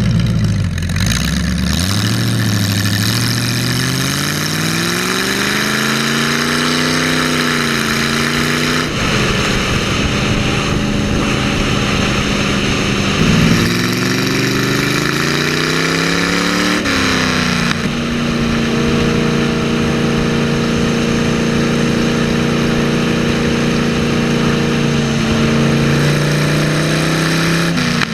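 Big Block Chevy 454 cubic inch V8 in a custom lawnmower, revved up and let fall back twice, then held at a steady fast idle.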